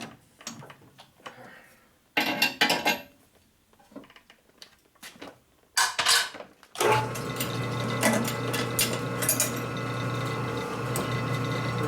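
Small metal parts and tools clinking and clattering, then about seven seconds in an electric shop machine motor starts and runs steadily with a humming whine, spinning a bolt that is being turned down into a small brake-line ferrule.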